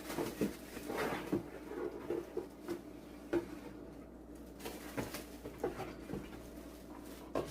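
Box and packaging being opened and handled: irregular light knocks, taps and rustles of cardboard and wrapping.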